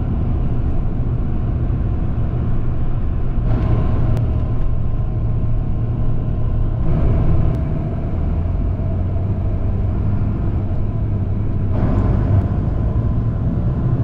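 Tour bus engine and road noise heard from inside the cabin: a steady low rumble and hum, with the higher road noise swelling a little about three and a half, seven and twelve seconds in.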